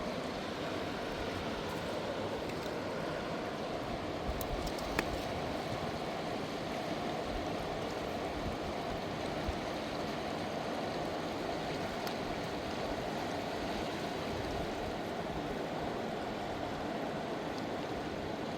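Fast-flowing mountain river rushing steadily, with a few faint taps about four to five seconds in.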